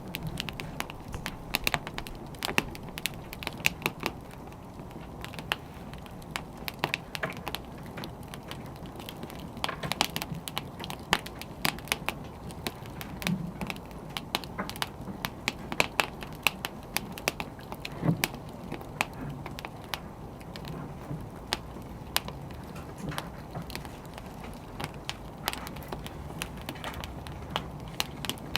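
A wood fire burning and crackling, with frequent irregular sharp pops and snaps over a low, steady rustle.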